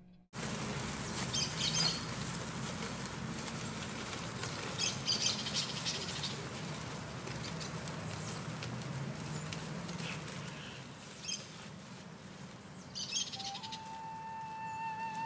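Outdoor ambience over a steady background hiss and low hum, with birds chirping in short bursts several times. A held musical note, flute-like, comes in near the end.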